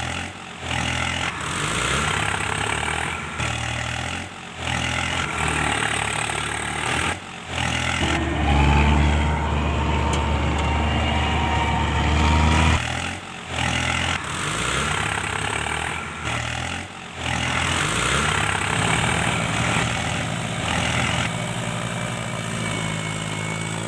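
Heavy vehicle engine running and revving, louder for a few seconds near the middle, with a faint rising whine. It comes in pieces broken by several abrupt short cuts.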